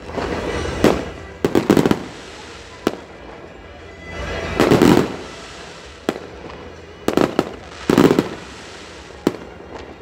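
Fireworks display: a string of sharp bangs from shells bursting overhead, some single and some in quick clusters of two or three, each with an echoing tail.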